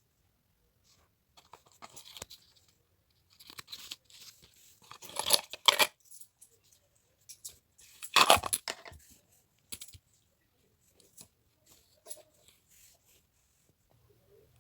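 Kitchen handling sounds during cooking: scattered clinks, clicks and rustles, with two louder clattering bursts about five and eight seconds in.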